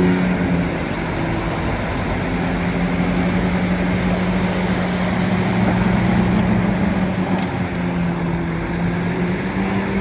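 Bulldozer's diesel engine running steadily. Its note shifts slightly up and down in pitch as the engine speed changes.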